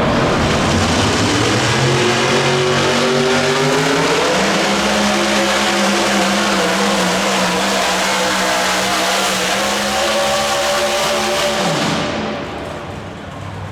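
Competition pulling vehicle's engine at full throttle: the revs climb over the first few seconds, hold high and steady, then drop away sharply about twelve seconds in as the sound gets quieter.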